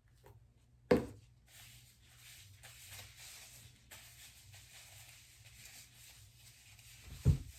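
Handling noise: a sharp knock about a second in, faint rustling after it, and a dull thump near the end.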